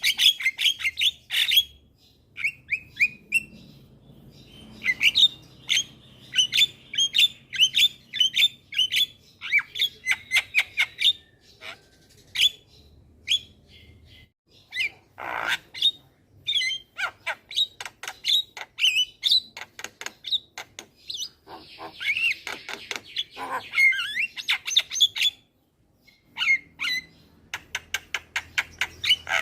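Javan myna calling: quick runs of short, sharp chirps and clicks, broken by a few harsher, noisier calls.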